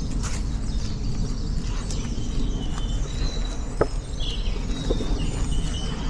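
Several woodland birds singing, with overlapping short whistles, chirps and trills, over a steady low rumble.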